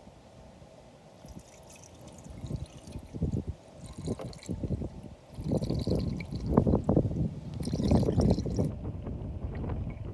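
Engine flush glugging and trickling as it is poured from its bottle into the engine's oil filler, getting louder about halfway through.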